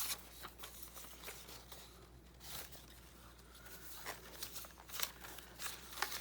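Paper pieces rustling and crinkling as they are handled and shuffled, in short irregular bursts, with a few sharper crinkles near the end.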